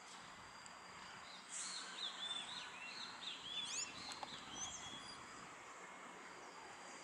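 A small bird chirping a quick run of short, arched notes for about three seconds, starting about two seconds in, over a faint steady hiss.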